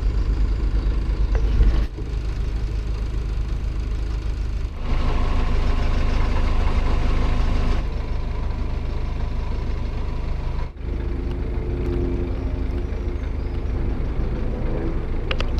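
Narrowboat's diesel engine running steadily while cruising: a low, even throb. The sound shifts abruptly a few times.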